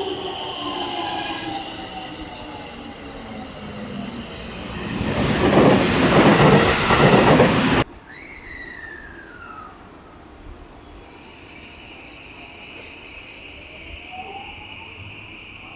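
Trains at a railway station: a falling whine, then a loud rush of a train passing close that cuts off suddenly about eight seconds in. After that the sound is quieter, with a short falling whine and, near the end, a rising whine as a train gets under way.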